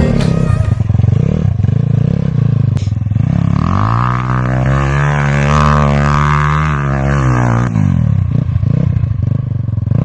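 A motor vehicle engine running, revving up about four seconds in, holding the higher pitch, then dropping back near eight seconds.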